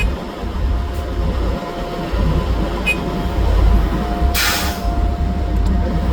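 Small wheeled excavator's diesel engine running with a steady low rumble and a thin, constant whine over it. A short hiss comes about four seconds in.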